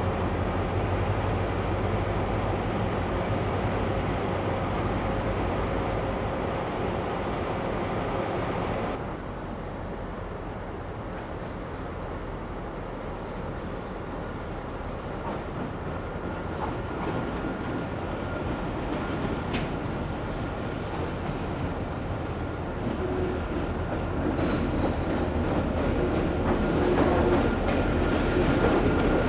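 Train running on rails with wheel clatter. The sound changes suddenly about nine seconds in, then another train's running noise builds toward the end with a steady high tone over it.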